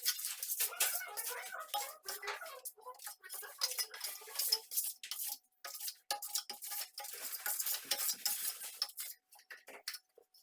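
Steel plastering trowel scraping and working decorative plaster in quick, irregular strokes, with a faint metallic ring under the scraping.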